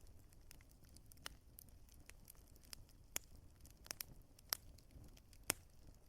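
Wood fire burning quietly, crackling with scattered sharp pops over a low steady rumble; the loudest pop comes about five and a half seconds in.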